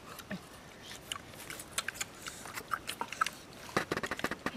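People biting and chewing roasted pork: many short, irregular clicks and crunches, coming thicker toward the end.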